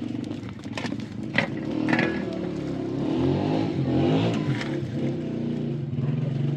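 An engine running, its pitch rising and falling as the revs change, with a few sharp clicks in the first two seconds.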